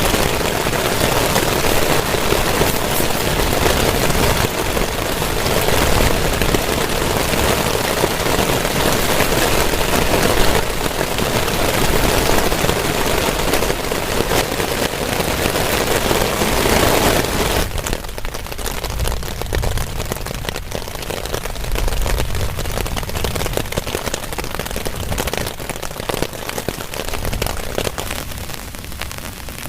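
Heavy rain pouring in a loud, steady hiss with a low rumble underneath. About two-thirds of the way through it abruptly turns duller and somewhat quieter, the hiss falling away while the low rumble continues.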